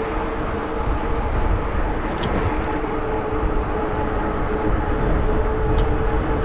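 Riding an electric bike: a steady motor whine over tyre and wind rumble on the mic.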